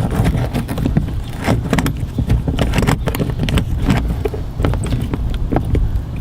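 Irregular small clicks and knocks of a screw being undone and a plastic mudflap being worked loose from a car's wheel arch, over a steady low rumble.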